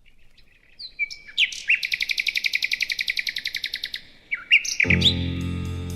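A songbird singing: a few short whistled notes, then a long, rapid trill of about ten notes a second. Music with sustained chords and bass comes in near the end.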